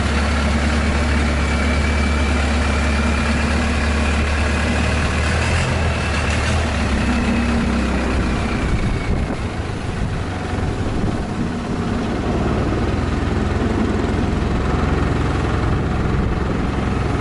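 Long-tail boat's engine running steadily with a low drone, its note turning rougher about halfway through.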